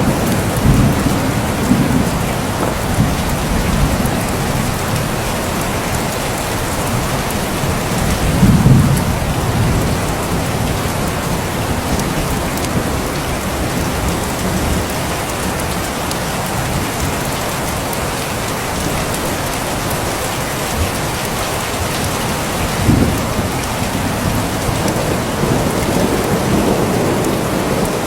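Steady heavy rain, with low thunder rumbling now and then: a rumble near the start, the loudest about nine seconds in, and a shorter one about 23 seconds in.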